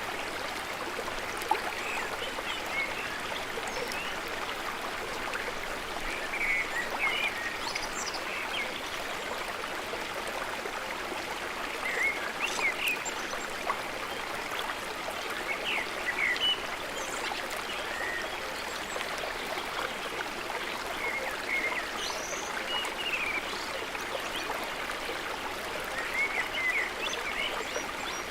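A steady rush of water, like a stream, with short chirps scattered over it, most likely small birds calling now and then.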